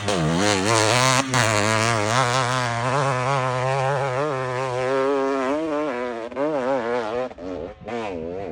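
Dirt bike engine running hard at high revs, pitch wavering slightly, then revving up and down repeatedly as the throttle is worked in the last few seconds.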